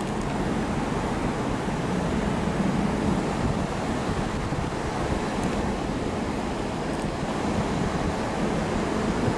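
Steady low rumble and hiss of railway station ambience, with a faint steady hum underneath.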